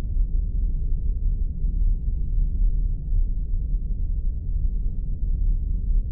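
Spaceship interior ambience sound effect: a steady, deep, muffled rumble that stays even throughout, with nothing in the upper range.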